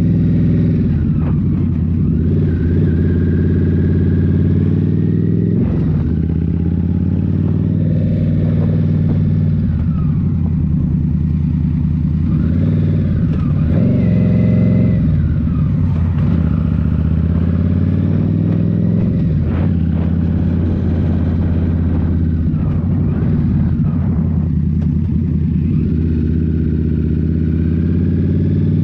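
2023 Indian Scout Rogue's 69 cu in V-twin running through a Rinehart slip-on exhaust, with the throttle opened and closed again and again. The engine pitch drops and climbs back several times, about every four to six seconds.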